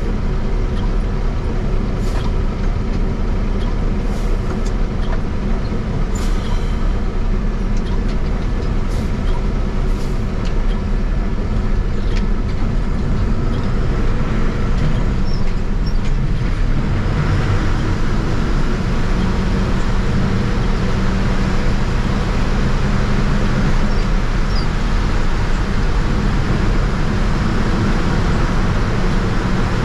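A motor vehicle's engine running steadily with road noise and a few light rattles, the noise swelling louder about halfway through.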